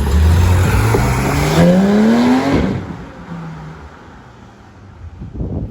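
Porsche 911 GT3's flat-six engine accelerating hard, its pitch rising steadily for about two and a half seconds, then dropping away suddenly and fading.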